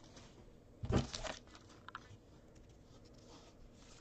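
Brief rustle of trading-card packs and cards being handled about a second in, followed by faint scattered ticks.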